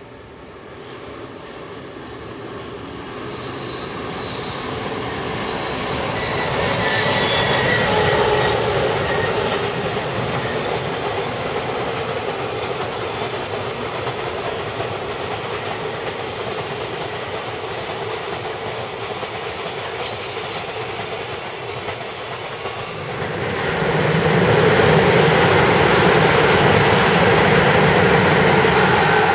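A train running past on the rails, growing louder as it approaches, with steel wheels squealing in thin high tones. It gets louder again about three-quarters of the way through.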